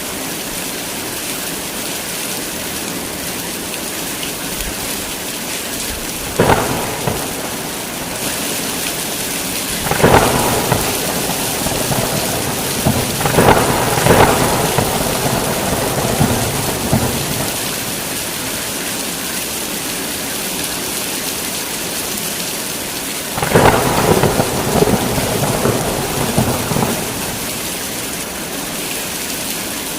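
Heavy rain falling steadily, broken by thunder. There are sharp claps about six and ten seconds in, then a rumbling peal around thirteen to fifteen seconds, and another long rumble starting about two-thirds of the way through.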